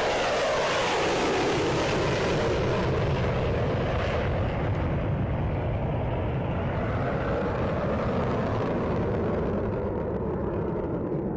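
Jet aircraft flying past: a loud roar that drops in pitch over the first second or two, then a steady rumble that slowly fades.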